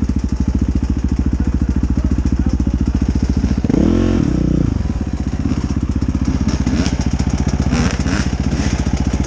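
Dirt bike engine running steadily, with one brief rev about four seconds in where the pitch rises and falls back.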